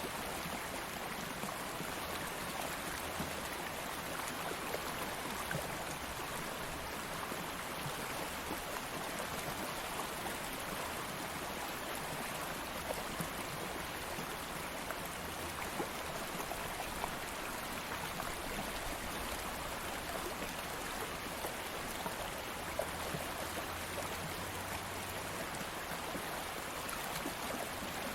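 Stream water flowing steadily over rocks, an even rushing with small splashes and trickles throughout.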